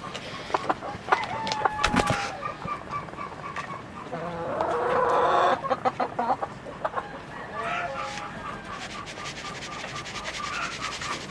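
Chickens clucking and calling, with a run of short repeated clucks in the second half and a louder, rough call about halfway through, over scattered sharp clicks.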